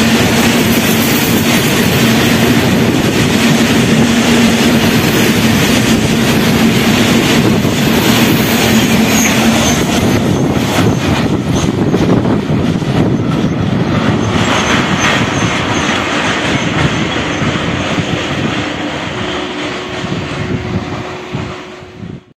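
BOXN covered freight wagons rolling past at close range, their wheels clattering on the rails, with a steady ringing tone through the first half. Once the last wagon has passed, the sound thins to separate wheel clicks and fades as the train draws away, then cuts off just before the end.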